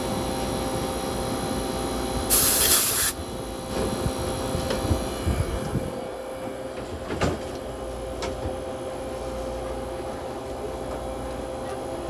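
Commercial refrigerator condensing unit running with a steady hum. About two seconds in, a short sharp hiss of R404A refrigerant as a gauge hose is unscrewed from the service port, followed by a few knocks of hoses and gauges being handled.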